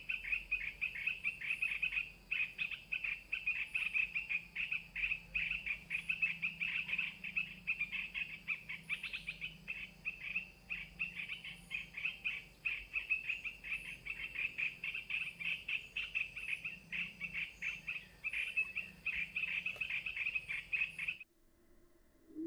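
Recorded bulbul (merbah) calls played through a small MP3 player as a lure: a continuous, rapid chattering of repeated high notes, several a second. The calls cut off sharply near the end, followed by a short low tone.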